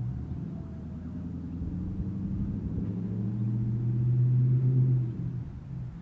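LS1 V8 exhaust of a 1998 Pontiac Firebird Formula, running through a high-flow catalytic converter and glasspack, building in level as the car drives by. It is loudest about four to five seconds in, then drops off suddenly.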